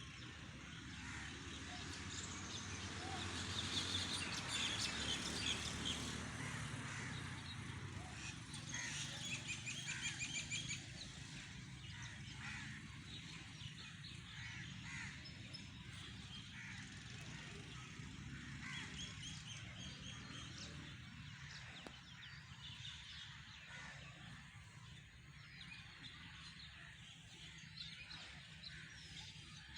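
Several birds calling outdoors, in short repeated series of calls, busiest in the first third, over a steady low background rumble.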